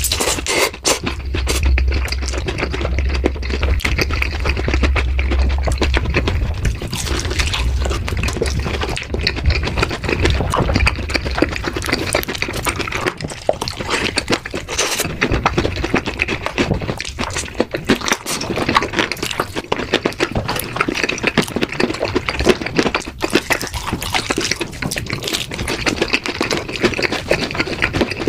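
Close-miked eating: people biting and chewing sauce-glazed fried chicken, a dense, continuous run of small crunches and mouth sounds.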